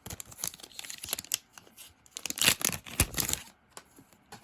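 Foil booster pack wrapper being torn open and crinkled, with trading cards being handled. The sound comes as irregular rustles and tears, loudest about two and a half and three seconds in.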